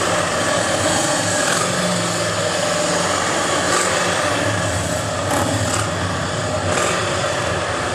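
Harley-Davidson motorcycle engines idling nearby, a steady low running sound within a dense wash of outdoor background noise.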